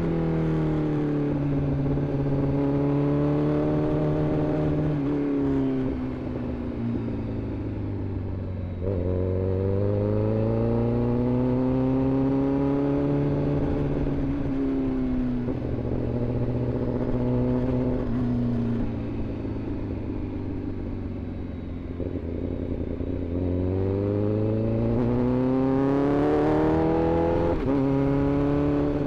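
Inline-four sport bike engine riding through traffic. Its pitch climbs under throttle and drops at gear changes, with a couple of spells of easing off, then pulls hard again near the end before a shift.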